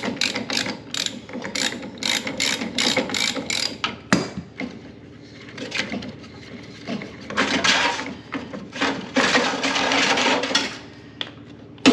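Ratchet wrench clicking as fasteners on a clothes dryer are turned, with a steady run of about three clicks a second early on. After a pause it gives way to a faster, denser stretch of ratcheting.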